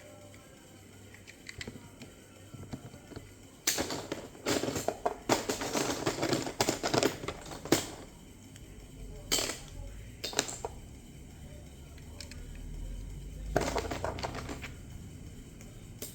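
Plastic Lego bricks clattering and clicking against each other as pieces are rummaged through. There is a long stretch of rattling from about four to eight seconds in, then three shorter bursts.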